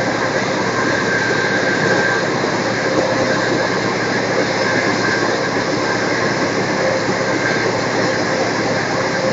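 Passenger train running at speed, heard from inside the carriage: a steady rumble and rush of wheels on rail, with a faint steady high tone.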